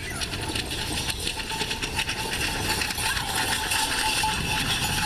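Firework crackling: a dense, rapid, unbroken string of sharp crackles.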